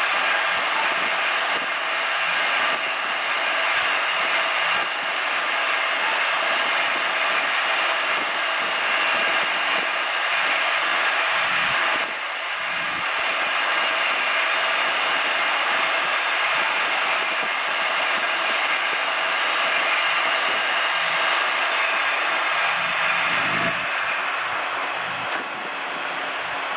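1993 Hurco KM3-P CNC vertical knee mill running a program: a steady whine of several tones from the spindle and drive motors over an even hiss, dipping slightly about halfway through.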